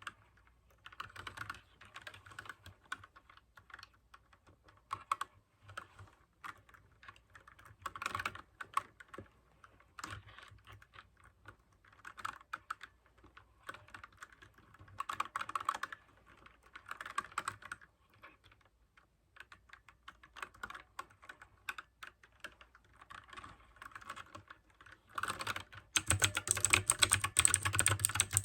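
Typing on a mechanical keyboard with clicky blue switches, keystrokes coming in short bursts with brief pauses. From about 26 seconds in, a faster, louder run of typing.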